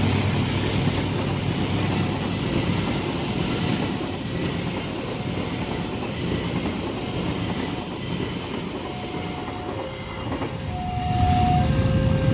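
Train passing on the rails, its rumble and wheel clatter slowly fading. In the second half an alternating two-note electronic tone comes in and grows louder.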